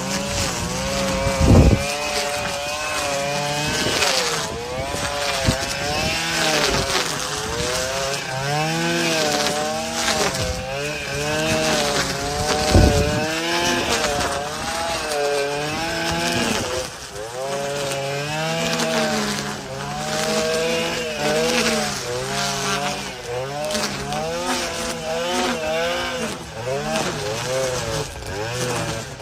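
Stihl FS 251 brush cutter's engine running as it trims grass and brush, its pitch rising and falling over and over as the throttle and load change. Two sharp thumps come through, one about a second and a half in and another near thirteen seconds.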